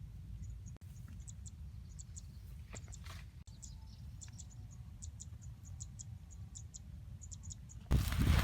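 Outdoor field ambience: scattered short, high chirps, singly and in quick groups, over a steady low rumble. Near the end a much louder low rumbling noise suddenly comes in.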